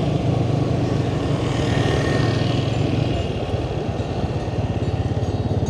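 Motorbike engine running at a steady cruise under riding, with wind and road noise over it. The engine eases off slightly a few seconds in.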